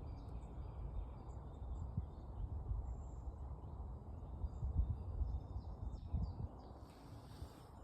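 Woodland birds chirping and calling faintly in a dawn chorus, over an uneven low rumble. A brief hiss comes near the end.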